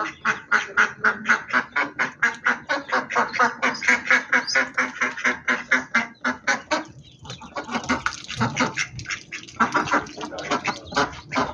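Duck quacking in a rapid series, about four or five quacks a second, with a short break about seven seconds in before it starts again.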